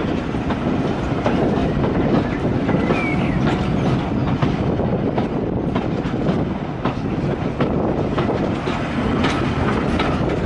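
Heritage railway carriage running along the line, heard from aboard: a steady rumble with repeated clicks of the wheels passing over rail joints.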